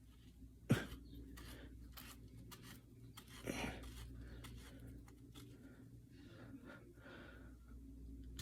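Small scrapes and clicks as the oil dipstick cap of a 2003 Yamaha TTR 125 is fumbled and threaded into the engine's filler hole, with one sharp click just under a second in. A faint steady hum runs underneath.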